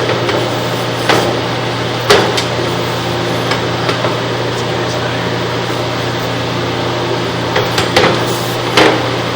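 Sewer inspection camera rig: a steady low electrical hum, with a few sharp knocks about one and two seconds in and a cluster near the end.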